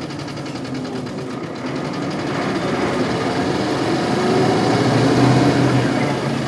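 Isuzu Cubic bus's 8PE1 V8 diesel engine running, heard from inside the bus. Its note builds from about two seconds in, peaks near the end, then eases slightly, as the bus pulls under power.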